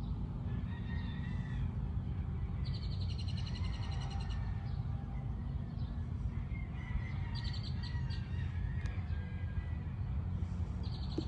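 Birds calling: a rapid trill of short high notes about three seconds in, a shorter trill a few seconds later and another at the end, with faint chirps between, over a steady low rumble.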